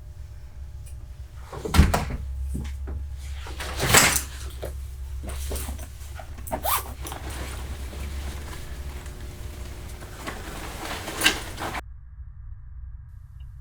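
Several scattered knocks and thuds, the loudest about two and four seconds in, over a low steady hum that cuts out near the end.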